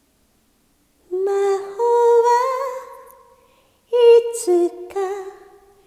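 A woman's voice singing a wordless, hummed a cappella phrase, twice, with held notes that glide slightly in pitch.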